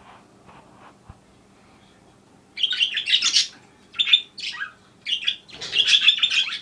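A budgie chirping in quick, chattering bursts, starting about two and a half seconds in and loudest near the end.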